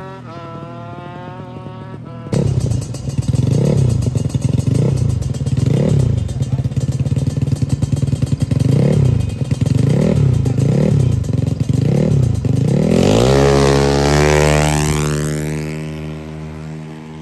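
Drag-racing motorcycle engines revved hard in repeated blips, about once a second. Near the end, one goes to full throttle, its pitch climbing steeply and then dropping and fading as it passes.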